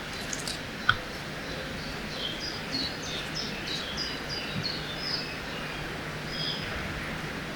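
Riverside forest ambience: a steady hiss of flowing water under a bird calling in a quick run of short, high chirps from about two seconds in. A single sharp click a little under a second in is the loudest moment.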